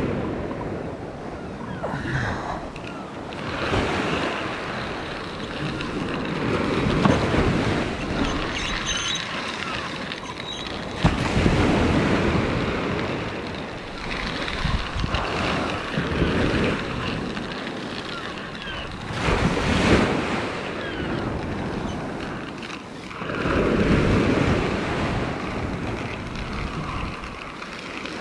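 Sea waves breaking on a shingle beach, the wash rising and falling every few seconds, with wind buffeting the microphone.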